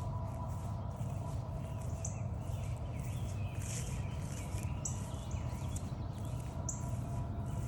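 Wild birds calling: short high notes every second or two, with some softer chirping in the middle, over a steady low rumble and a faint continuous hum.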